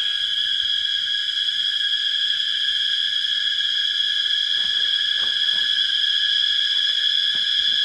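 Steady, loud chorus of forest insects: an unbroken high-pitched drone with several even tones held throughout. A few faint knocks or rustles come about five seconds in.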